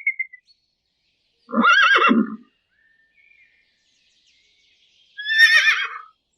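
Horse whinnying twice, each whinny about a second long with a quavering pitch, about three and a half seconds apart.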